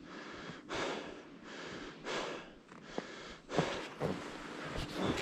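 A skier going down a run with a GoPro on, a rough whoosh swelling and fading about every second and a half in rhythm with the turns, and a few sharp clicks near the end.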